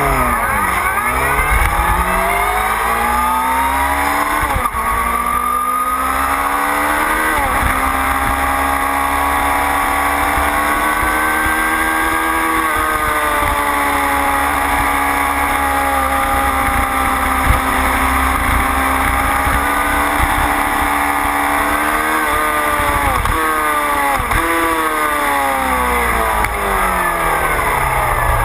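A motorcycle engine heard onboard at speed. The revs climb and drop back with quick upshifts over the first several seconds, then hold high and steady for a long stretch. Near the end they fall in a run of downshifts with short throttle blips, under a steady low rumble.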